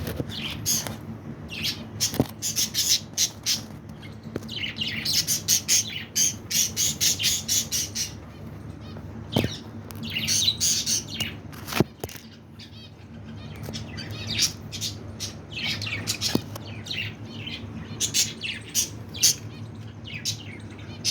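Budgerigars and finches in an aviary chattering and squawking: a dense, continuous run of short scratchy calls, broken by a few sharp clicks, over a low steady hum.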